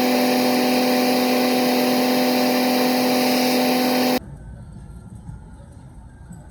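A machine running steadily: a strong, even hum with overtones over a loud hiss, cutting off abruptly about four seconds in and leaving a quieter low rumble.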